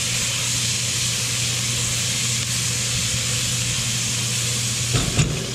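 Diced zucchini, squash and onion sautéing in an enameled cast-iron Dutch oven: a steady sizzling hiss. Near the end the sizzle breaks off and there are a few short knocks.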